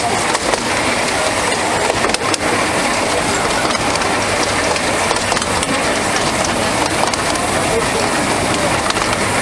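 Minimum-gauge passenger carriage running along the track, heard from on board: a steady rumble and rattle of the wheels on the rails, with a few sharp clicks.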